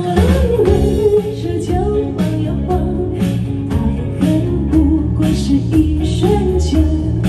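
Live band playing an instrumental passage of a pop song between vocal lines: a steady drum beat, bass and guitar, with a lead line gliding in pitch above them.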